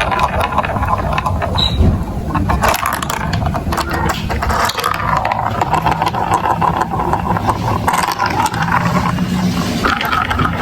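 Hard plastic marble-run building pieces clattering, with many small clicks over a steady rumble.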